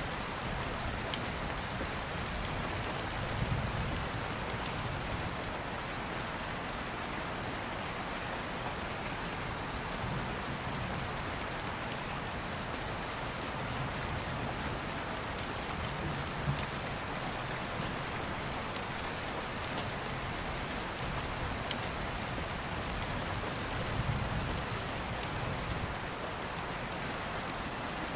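Steady rain falling, with a few sharp crackles of an open wood fire and soft low rumbles of distant thunder now and then.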